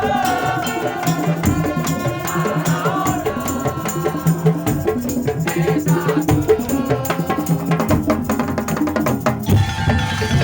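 Madurese tong-tong percussion ensemble playing a fast, dense beat of wooden knocks and drums, under a lead melody that slides in pitch; the texture changes near the end.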